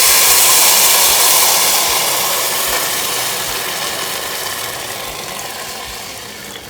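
Water poured into a hot Dutch oven of rice toasted in oil, setting off a loud hissing sizzle and burst of steam that slowly dies away.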